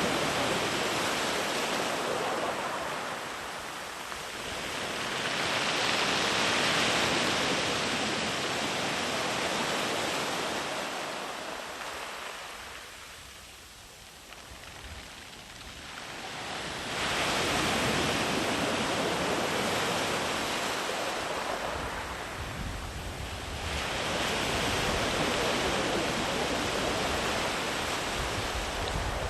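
Sea waves breaking on a sandy beach and washing back, the surf swelling and fading in long slow surges about every eight to ten seconds, with a quiet lull between breakers about halfway through.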